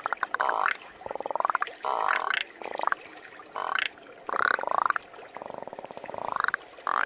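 A person imitating a frog with their voice: a run of about seven rattly croaks, each rising in pitch, one after another with short gaps.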